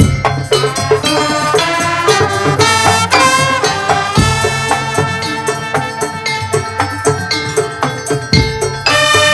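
Madurese tong-tong ensemble playing loud traditional percussion music: a dense melodic line over rattling percussion, with a heavy low drum hit at the start, about four seconds in and again near the end.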